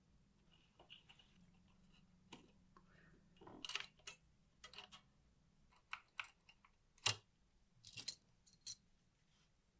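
Small metal parts clicking and clinking as they are handled: about a dozen short, sharp knocks and taps at irregular intervals, the loudest about seven seconds in, with a quick cluster just after eight seconds.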